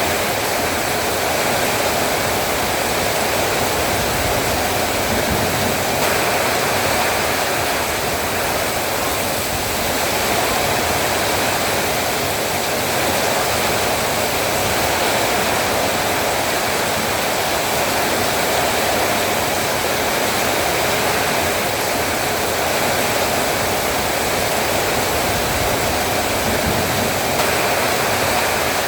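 Heavy rain falling steadily, an even downpour hiss with no breaks.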